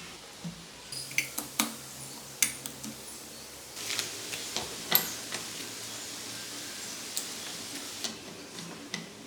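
Small metal tools and engine parts clinking and tapping as they are handled, a few sharp clicks at a time, over a faint steady low hum.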